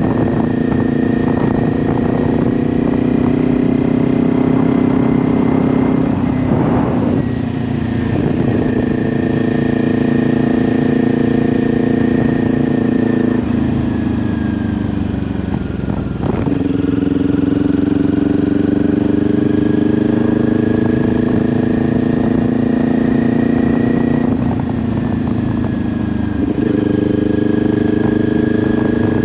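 2022 Kawasaki Ninja 400's parallel-twin engine through an SC-Project exhaust, heard from the bike while riding at a steady cruise. Twice the engine note sags as the throttle eases off and then picks back up.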